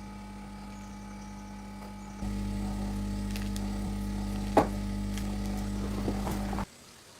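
A motor running with a steady hum, which gets louder about two seconds in, with one sharp knock about halfway and a couple of faint clicks after it; the hum cuts off abruptly near the end.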